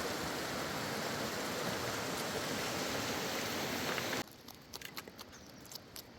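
Steady rushing noise that cuts off suddenly about four seconds in, leaving a quieter background with scattered clicks.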